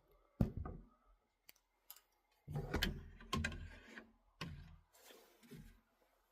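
Several irregular clicks and knocks, spaced over a few seconds, from things being handled by hand.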